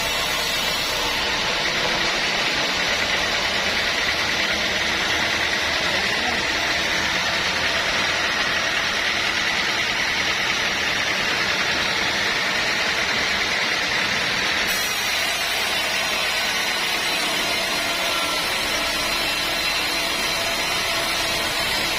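Sawmill machinery running steadily: a constant loud whirring noise with a faint high whine.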